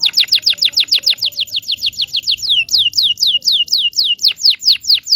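Canary singing a fast trill of repeated whistled notes, each sliding down in pitch, about six a second, the notes growing slower and dropping further near the end.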